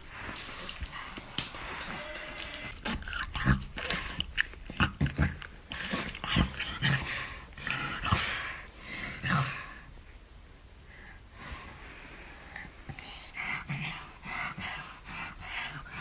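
A dog making noisy breathing and growling sounds in short, irregular bursts, with a quieter lull about ten seconds in.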